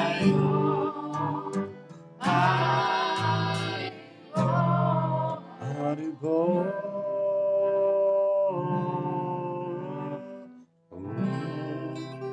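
Kirtan: voices singing a devotional mantra chant in held phrases, over acoustic guitar accompaniment.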